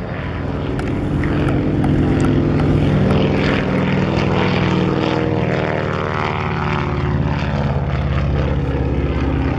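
Piston-engined propeller aircraft flying past. The engine grows louder over the first few seconds, then drops in pitch as it goes by.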